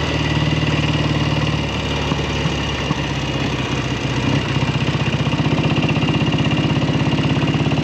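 1967 Kawasaki W1 650 parallel-twin engine putting along at low revs, with a steady beat of firing pulses that becomes more distinct about halfway through. The engine is running with one carburetor not working properly.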